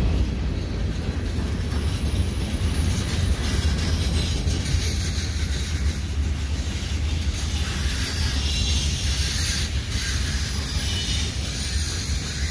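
Freight cars of a long train rolling past, a steady rumble of steel wheels on the rails, as covered hoppers and then boxcars go by. A faint thin high-pitched whine sits over it for a few seconds in the middle.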